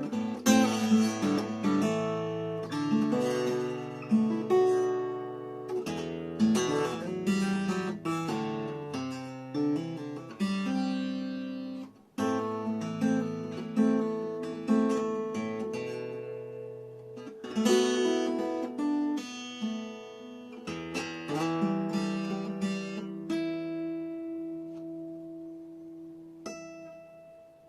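Acoustic guitar with freshly changed strings, chords and melody notes picked and strummed so that they ring and decay. The playing thins out towards the end, the last notes fade, and one short high note sounds just before the end.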